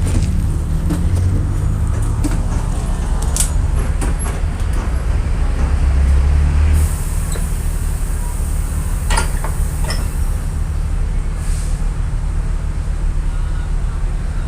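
VolksBus 17.230 EOD bus diesel engine running under load with a deep, steady rumble. About seven seconds in the engine note drops back and a hiss of air starts, with a few short clicks after it.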